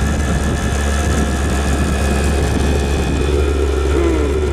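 Chinese diesel air heater running steadily: a constant hum with several steady higher tones from its burner and blower. It is making a weird noise that the owner says doesn't sound right, with the flame burning mostly outside the exhaust pipe.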